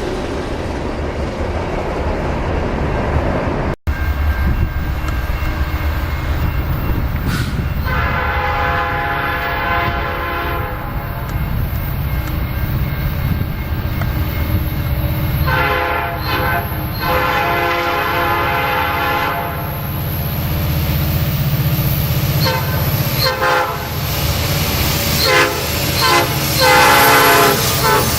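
Train rumbling past on the rails, then a diesel locomotive's multi-chime air horn. It gives one long blast, two more blasts in the middle, and a quick series of short toots near the end, over the steady low rumble of the locomotives.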